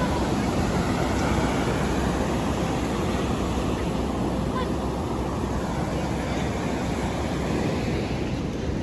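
Ocean surf washing steadily, with wind noise and a few faint bird calls over it.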